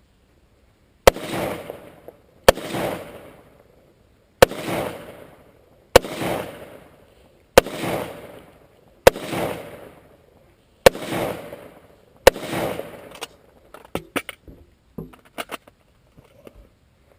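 Rifle shots fired in steady succession: eight loud cracks about one and a half seconds apart, each followed by about a second of echo. Several fainter, sharper cracks follow near the end.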